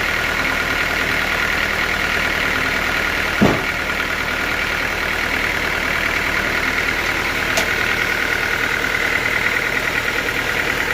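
Sawmill machinery running steadily with a constant whine, and one sharp knock about three and a half seconds in.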